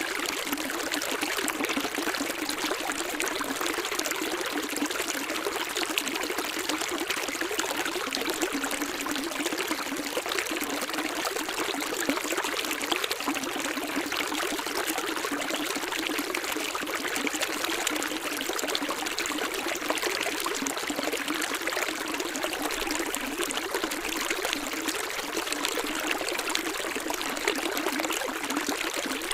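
Running water of a stream, trickling and splashing steadily without pause.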